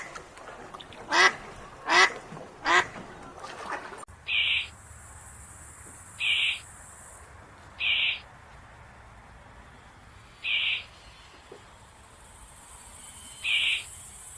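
A duck quacking four times in quick succession. After a cut a little under halfway through, a short high one-note call repeats five times, every two to three seconds, over a steady high hiss like insects.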